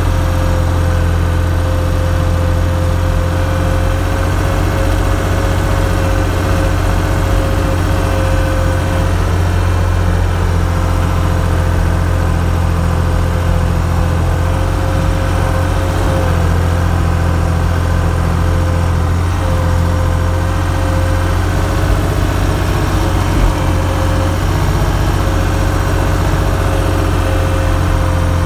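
An engine running steadily at an unchanging speed, a constant low drone with a steady higher whine over it.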